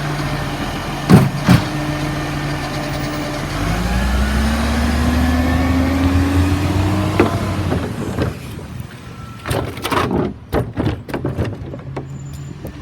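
Garbage truck engine idling with two loud clanks about a second in, then revving up with a rising whine for a few seconds before dropping back. Later comes a run of irregular knocks and clatter.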